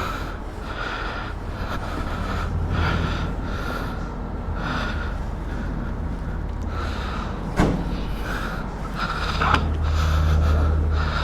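Hand wiping of a motorcycle's plastic body panels: soft, repeated rubbing strokes about once a second over a steady low hum, with one sharp click about two-thirds of the way through.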